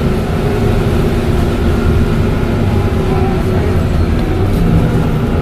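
Dennis Trident double-decker bus engine running steadily under way: a low drone with a steady higher whistle over it from the turbocharger.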